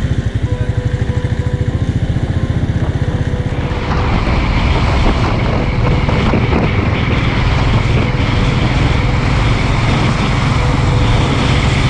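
Motorcycle engine running steadily at road speed, its firing pulses even, with wind rushing over the microphone; the sound grows louder and noisier about four seconds in.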